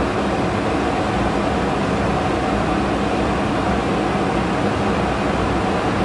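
Steady rushing cockpit noise of a Boeing 727-200 in climb, accelerating to 300 knots after passing 10,000 ft: airflow over the flight deck and engine noise, with a faint low hum underneath.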